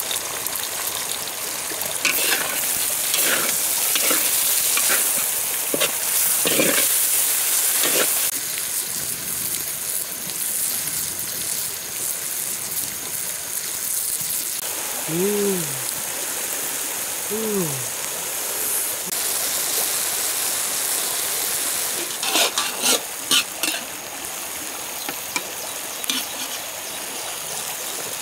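Jackfruit pieces frying in a large metal wok: a steady sizzle, with a metal spatula scraping and clinking against the pan in short runs of strokes in the first few seconds and again near the end, over the rush of a river.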